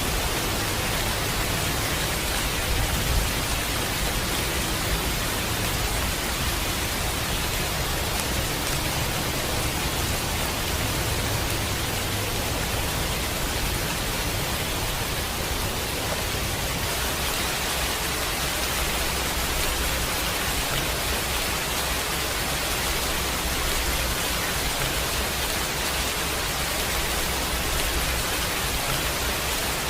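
Steady heavy rain, an even hiss with no single drops or thunderclaps standing out, and a low rumble underneath that swells and eases.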